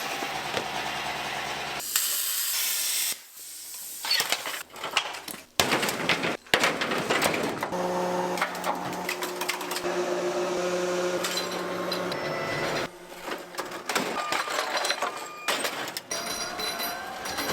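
Workshop sounds of a motorcycle being dismantled, edited into short cuts: clanks and tool noises, a burst of hissing about two seconds in, and a steady motor hum in the middle lasting about five seconds.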